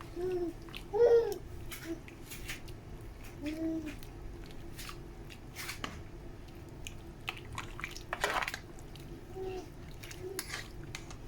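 A small child babbling in short high-pitched sounds, the loudest about a second in, among scattered light clicks and knocks, with a short rushing noise about eight seconds in.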